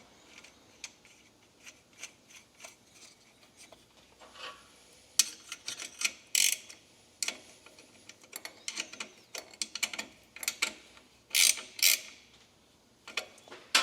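Small metal engine parts and hand tools being handled during carburetor work: scattered clicks and clinks, with a few short rasping bursts about six seconds in and again near the end.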